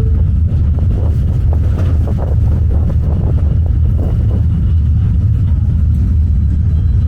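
New York City subway train running: a loud, steady low rumble, with uneven clattering in the first half.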